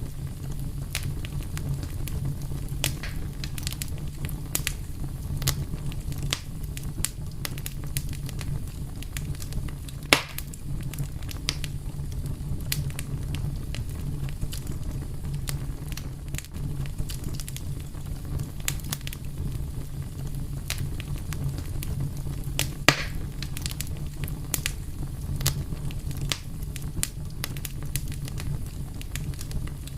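Fire crackling steadily, with dense irregular snaps and pops over a low, even rumble of flame; two sharper, louder pops stand out, one about a third of the way in and one about three quarters of the way in.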